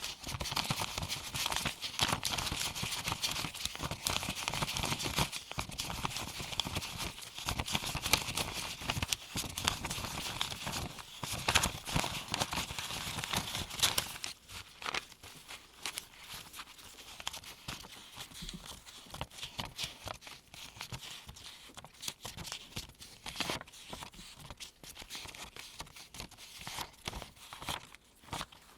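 Crisp paper US one-dollar bills rustling and snapping as gloved hands count them one at a time onto a pile. The handling is dense and louder for the first half, then turns sparser and quieter, with single light taps and rustles.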